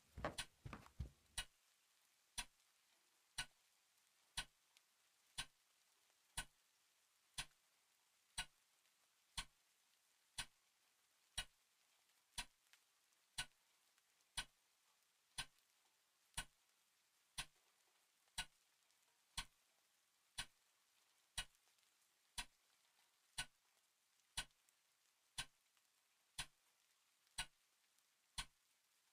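A clock ticking steadily, about once a second. In the first second or so there is a quick cluster of low knocks.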